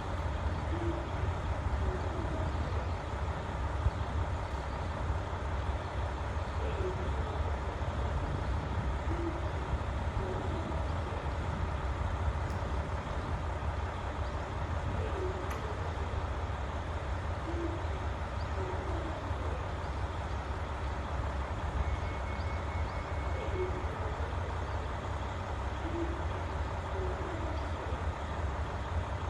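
Diesel railcar engines idling steadily with a low, even rumble. Faint short hoot-like sounds recur every few seconds over it.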